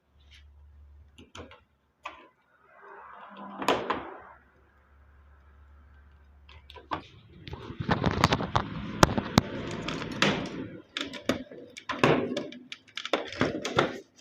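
Clicks, knocks and rattling of plastic and metal parts being handled and refitted on a washing machine, with a dense spell of clattering from about seven to eleven seconds in.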